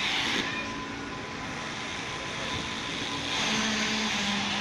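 Steady machine-like background noise, a hiss with a low hum that comes and goes.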